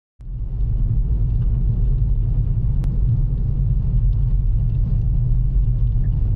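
A loud, steady low rumble that starts suddenly just after the start.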